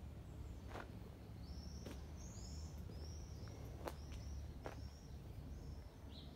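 A small bird calls a run of short, high, arching chirps in quick succession, over a faint low rumble, with a few light footsteps on a dirt lane.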